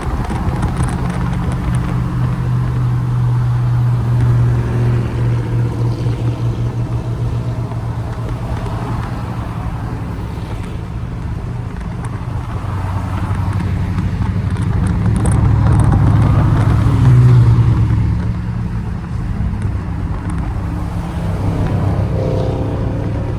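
Car engine running with a deep, steady exhaust rumble; the pitch shifts partway through and the sound swells louder about two-thirds of the way in.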